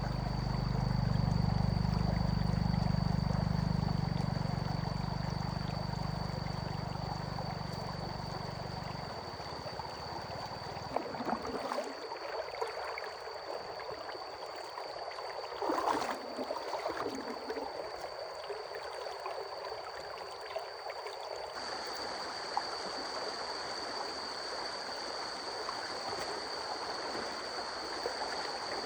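Water running in a stream, a steady wash, with a low rumble in the first third and a few small knocks or splashes around the middle.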